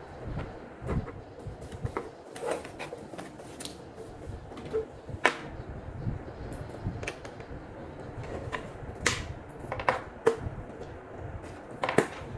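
Irregular clicks, taps and light knocks of hard parts being handled while a television and its accessories are unpacked. The sharpest clicks come about five seconds in, around nine seconds, and near the end.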